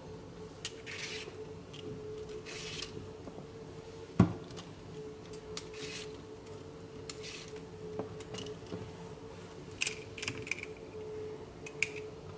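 Kitchen food-prep handling sounds: scattered clicks, clinks and short rustles, with one sharp knock about four seconds in, over a steady low hum.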